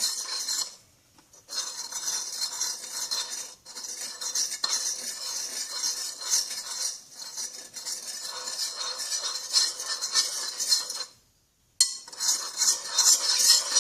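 A metal spoon stirring and scraping around a big glass bowl, a continuous clinking, scraping noise as glue and borax solution are mixed into slime. It stops briefly twice, about a second in and near the end. It is loud enough to hurt the ears.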